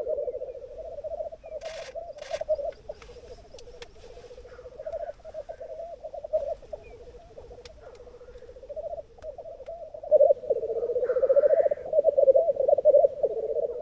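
Male black grouse at a lek, several birds bubbling together in a continuous warbling chorus, broken by a few short hissing calls. The chorus grows louder about ten seconds in.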